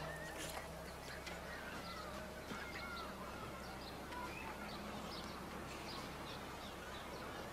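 Faint scattered bird-like chirps and short wavering whistles over a steady low hum.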